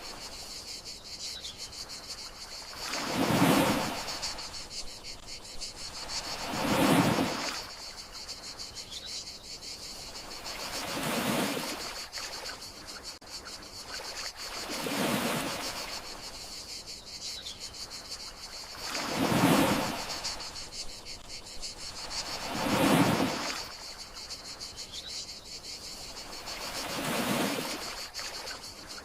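Gentle sea waves washing onto the shore, one swell about every four seconds, over steady high chirring of crickets. A faint short bird call comes every eight seconds or so.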